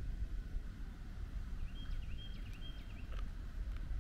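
Outdoor ambience under trees: a steady low rumble, with a bird calling a short phrase of three clipped, high notes about two seconds in.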